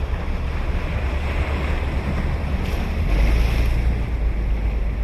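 Ocean surf breaking and washing up the beach, the hiss of the wash swelling about two to three seconds in, over a steady low rumble of wind buffeting the microphone.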